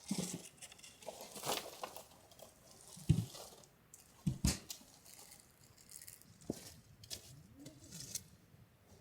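Irregular rustling and scraping with scattered clicks, and two dull thumps about three and four and a half seconds in.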